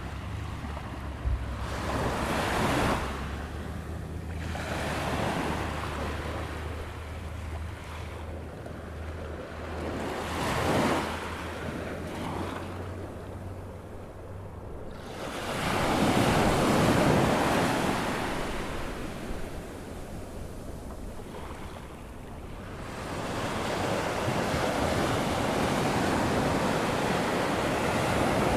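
Ocean surf breaking on a sandy beach as the tide comes in. Waves wash in as repeated swells, the largest about halfway through, then a steadier rush of surf near the end. A low steady hum runs under the first half and stops about halfway.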